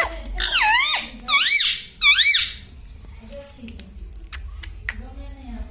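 Indian ringneck parrot giving three loud, high-pitched calls in quick succession, each swooping down and up in pitch, over the first two and a half seconds, followed by quieter chatter.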